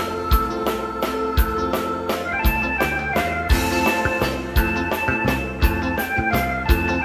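Instrumental waltz music: an electronic organ plays the melody in held notes over a drum-kit beat in three-time, a strong drum stroke about once a second with lighter strokes between.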